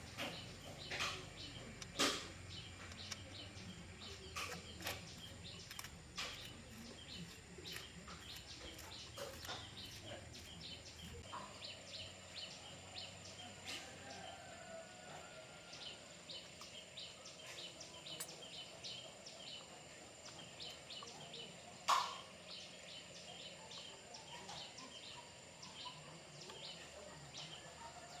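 Birds chirping, with scattered light clicks and taps throughout. A louder sharp knock comes about two seconds in, and another about 22 seconds in.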